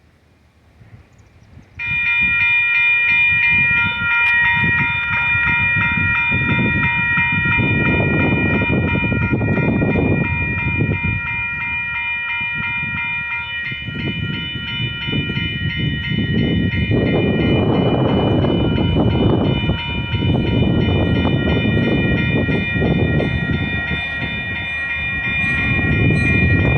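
Union Pacific locomotive's bell starting up suddenly about two seconds in and ringing on steadily, over the low rumble of the slow-moving train, which swells and fades.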